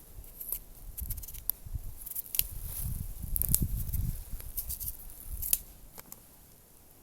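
Scattered light clicks and taps over a low rumble that swells in the middle, then eases off.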